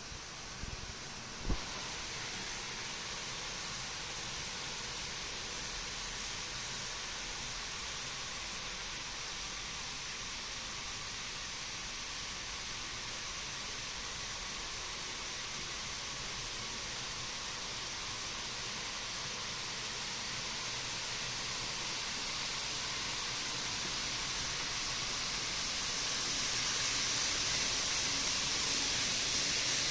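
Steady hiss of noise, with a single sharp click about a second and a half in; the hiss grows slightly louder near the end.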